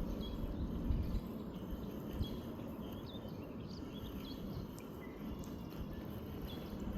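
Outdoor riverbank ambience: a steady low rumble of wind on the microphone, with scattered short bird chirps.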